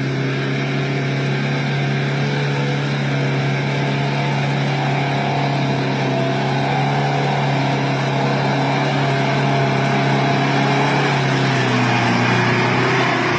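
A 4WD pickup truck's engine running at steady revs, dipping slightly in pitch about eleven seconds in.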